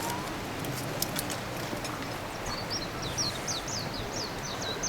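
A small bird singing a quick run of short, falling whistled notes, about four a second, starting about halfway through, over a steady outdoor background hiss.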